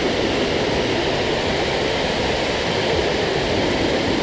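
Water rushing steadily over a shallow river waterfall, an even hiss of falling water.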